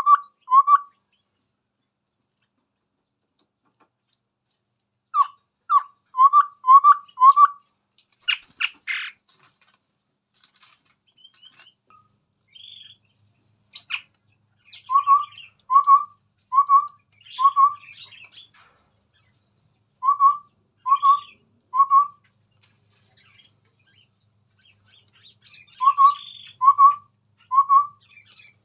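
Chestnut-rumped babbler singing: runs of three to five short whistled notes on one pitch, about three notes every two seconds, repeated four times, with fainter higher chirps between. There is a short harsh rasp about eight seconds in.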